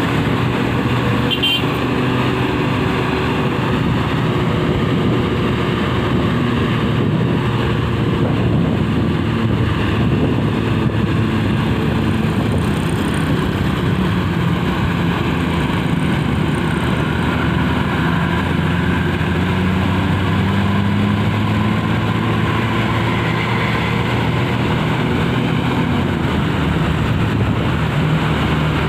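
Heavy road vehicle's engine running steadily under load over road noise, its pitch rising slowly about two-thirds of the way through.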